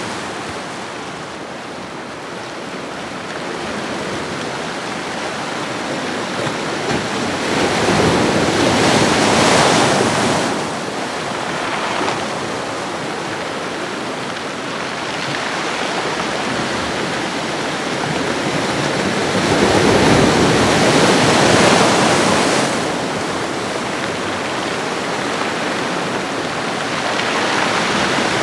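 Ocean waves washing onto a shoreline: a steady hiss of surf that swells as a wave breaks about eight seconds in, again about twenty seconds in, and builds once more near the end.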